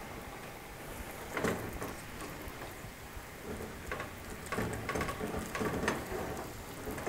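Scallops sizzling in a hot sauté pan, with a few soft clicks as a spatula moves scallops into a stainless steel steamer basket.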